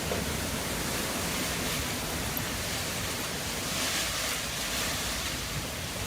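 Storm-force wind gusting at up to about 150 km/h: a steady rushing noise with wind buffeting the microphone, swelling a little about four seconds in.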